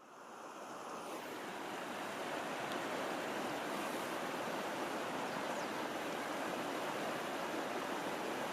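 A steady rushing of water, fading in over the first couple of seconds.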